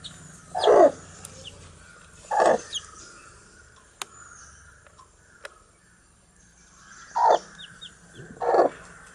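Four loud, short, low animal calls that fall in pitch, spaced a second or more apart. Between them come faint, high, short chick peeps.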